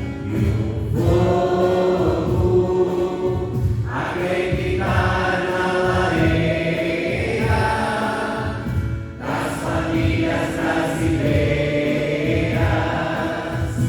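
A choir singing a Christian worship song over instrumental accompaniment with a steady beat, the voices holding long notes.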